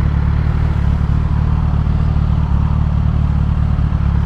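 2016 Kawasaki ZX-10R's inline-four engine with a Graves race exhaust idling at a steady, unchanging pitch.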